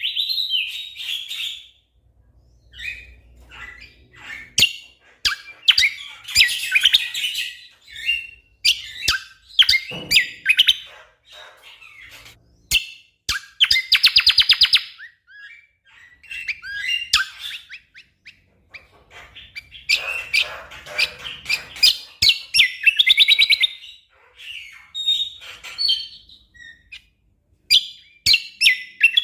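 Cucak kombo singing: repeated bursts of very fast, closely spaced rattling notes, each lasting about a second, mixed with short chirps and sharp clicks.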